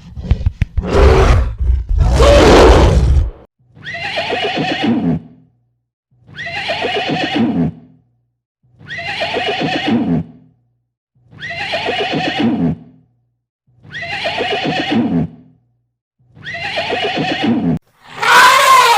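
An animal call repeated six times at even spacing, about every two and a half seconds, each call identical as if looped. It follows a loud, rough call at the start, and a different, higher call begins near the end.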